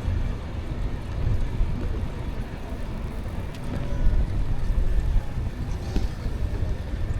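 Wind buffeting the microphone of a moving e-bike: a steady, gusting low rumble.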